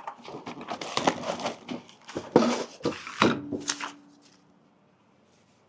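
Brake parts and kit packaging being handled: irregular metal clicks and clinks with rustling, dying away after about four seconds.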